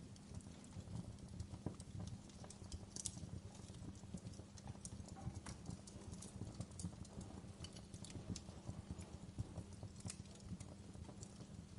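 Wood fire crackling: irregular sharp pops and snaps, a few louder ones now and then, over a steady low rumble of the burning fire.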